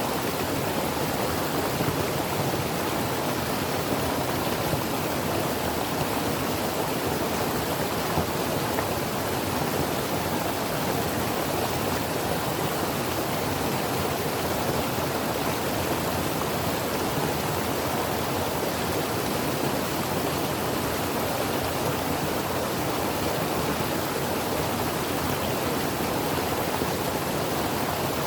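Creek water running, a steady, even rush with no breaks.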